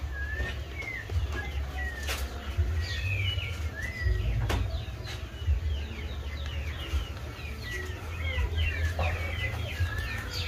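Many birds chirping and calling: a dense run of short, quick chirps and brief whistled notes, busier in the second half, with a couple of sharp clicks.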